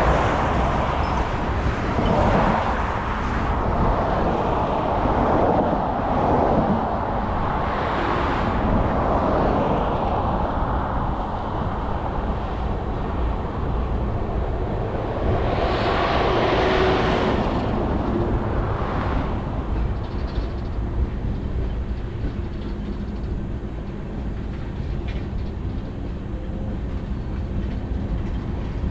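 Slow-moving BNSF manifest freight train rolling past: a steady low rumble of the cars on the rails, with louder swells of noise through the first several seconds and again a little past halfway.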